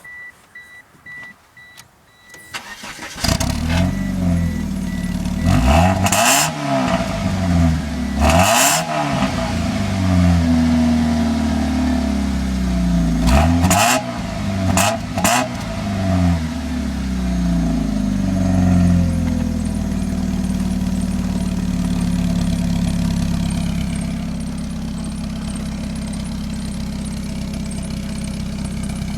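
A car's exhaust, heard from behind: a repeated beep, then the engine starts about three seconds in, is revved up and down several times, and settles to a steady idle for roughly the last ten seconds.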